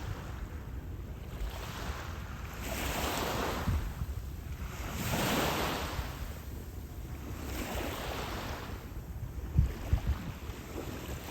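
Small waves washing onto the beach, three swells of surf rising and falling, under steady wind rumbling on the microphone with a few gusty thumps near the end.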